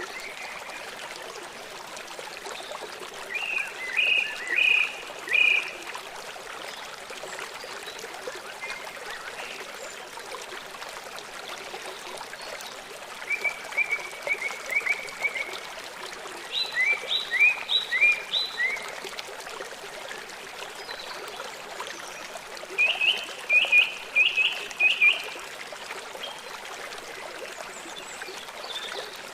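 Songbird singing short runs of repeated chirps, in four separate bursts, over a steady rush of running water.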